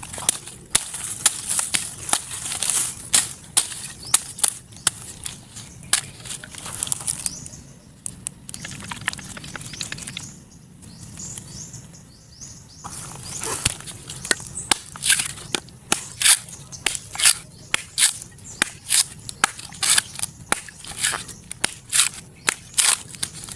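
Dry husk of an old coconut being torn and peeled off: a long run of sharp cracking and tearing snaps, with a quieter pause in the middle.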